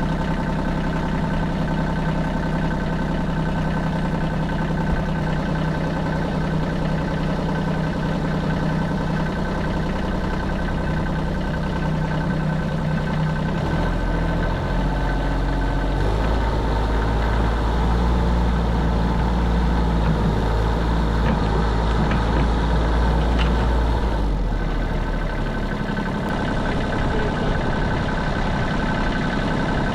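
Vehicle engine running steadily. Its note deepens into a heavier low rumble about halfway through, then eases back near the end.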